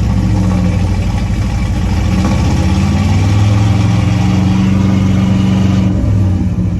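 An old truck's engine running loud and fast just after starting, surging high with the gas pedal barely touched and easing slightly near the end: it won't settle to a proper idle, which the owner puts down to the carburetor.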